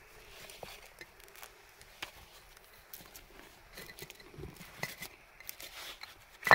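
Scattered light clicks and knocks of objects being handled, with a sharp knock right at the end.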